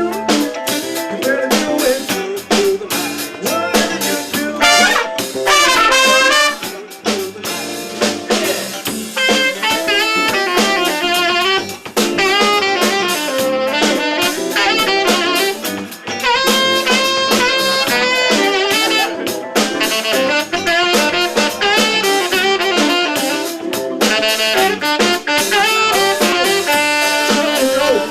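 Live jazz band playing, with saxophone and trumpet lines over a drum kit.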